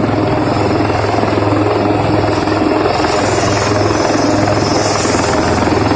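Helicopter running loud and steady on the ground, its rotor turning with a fast, even chop over a low engine hum.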